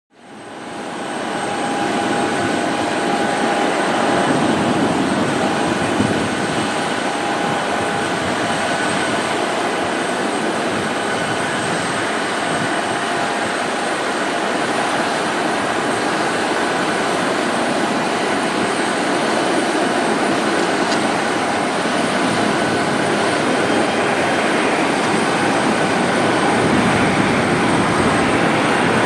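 Airbus A319's CFM56 jet engines running: a steady rushing noise with a high-pitched whine, fading in over the first second.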